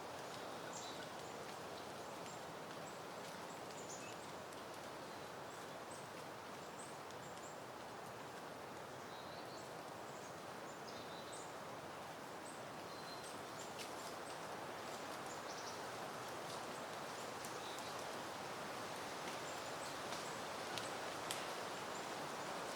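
Steady soft wind rustling through peony plants, swelling a little in the second half. Short high bird chirps come and go throughout, and a few light clicks sound near the end.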